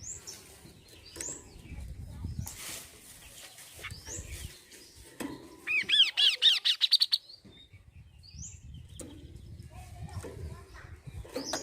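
Kaso-kaso bird calling: scattered short, high chirps, and about halfway through a loud, rapid run of about ten arching notes lasting a second and a half.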